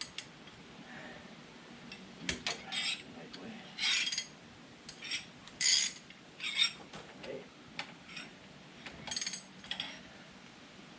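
Steel socket wrench and sockets clinking and scraping against metal in short, irregular bursts while the backhoe mounting-plate bolts are worked loose.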